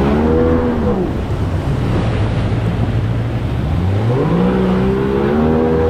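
Outboard jet motor of an inflatable boat: the engine note drops back about a second in, runs low and steady for around three seconds, then rises as the throttle opens again near the end, over a steady rushing noise.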